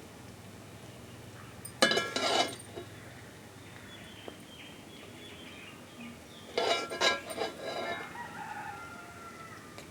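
Chicken calling twice, a short loud call about two seconds in and a longer one about two-thirds of the way through, over a faint steady background.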